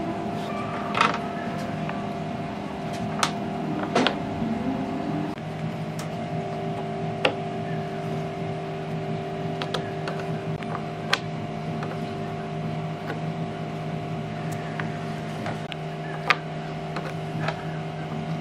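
A machine motor running steadily with a constant hum, with scattered sharp clicks and knocks over it.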